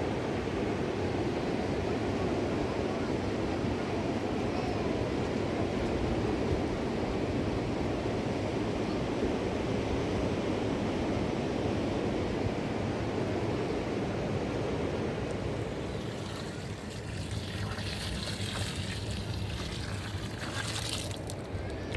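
Fast-flowing mountain river rushing in a steady roar of water. About three quarters of the way through the rush becomes a little quieter and thinner, with a few scattered higher sounds.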